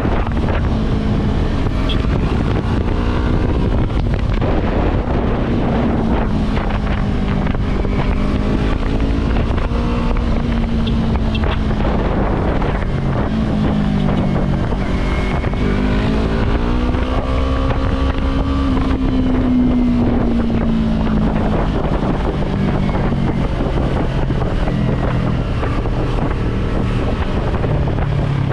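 Yamaha YZF-R3 motorcycle's parallel-twin engine running while riding, its pitch sinking and climbing a few times with throttle changes, under heavy wind noise on the microphone.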